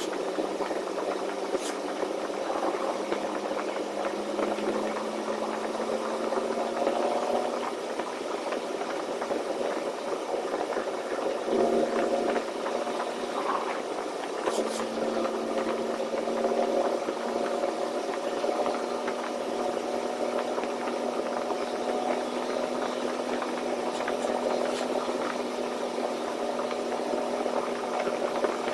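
Semi truck's engine running in the cab while driving, a steady drone whose pitch creeps slowly upward and shifts a couple of times, with cab rattles underneath.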